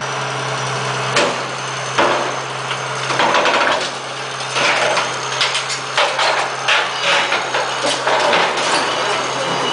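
An engine running steadily, with repeated sharp knocks and clatter over it.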